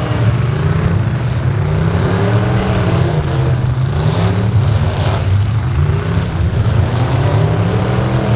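Truck engines revving hard, their pitch rising and falling several times over, with a couple of short harsh bursts of noise near the middle.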